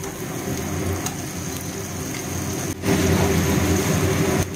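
Onion-and-spice masala sizzling in oil in a hot kadai, a steady hiss. About three seconds in the sizzle gets louder, with marinated chicken pieces now frying in the pan.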